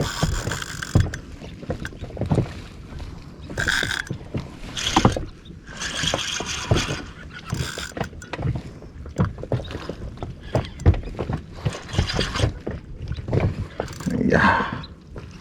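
Irregular knocks and scrapes on a small inflatable boat, with a few short rushes of splashing, as a queenfish (talang) is fought and brought aboard.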